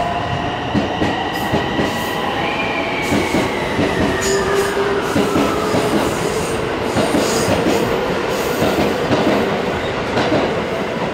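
JR West Thunderbird limited express electric train pulling out of the platform, slowly gathering speed. Its running gear gives off a whine that glides down in pitch over the first few seconds, over a rumble with wheels clicking.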